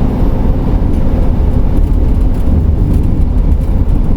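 Steady low rumble of road and engine noise inside the cab of a camper van driving at highway speed.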